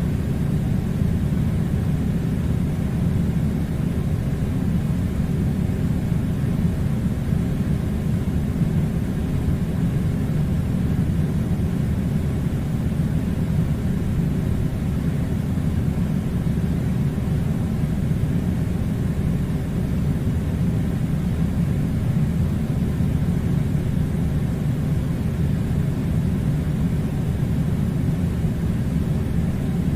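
Air conditioner running, a steady low rumble that does not change.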